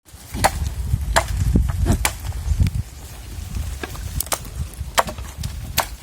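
Twigs and leafy stems snapping: sharp, irregular cracks about once a second, over a low rumble in the first three seconds.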